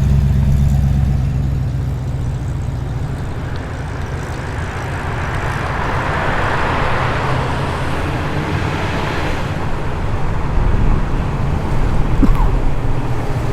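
Low, deep rumble of muscle car engines driving slowly past. One fades away over the first couple of seconds, and another grows louder as it approaches from about ten seconds in.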